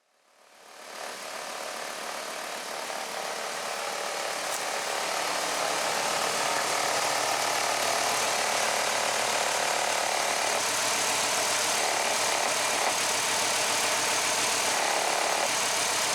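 2006 Hummer H3's 3.5-litre inline five-cylinder engine running steadily, with the sound coming up over the first second.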